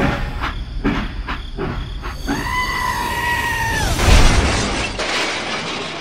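Toy train crashing into a miniature barn: a few sharp clicks, then a steady held tone for about a second and a half, then a loud crash about four seconds in as the wagons overturn and boxes scatter, fading away.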